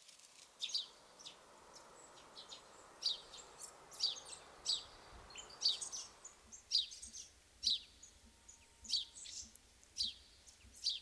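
A bird chirping over and over, short high chirps that fall in pitch, about one a second. Under them a faint steady hiss, which drops away about six seconds in.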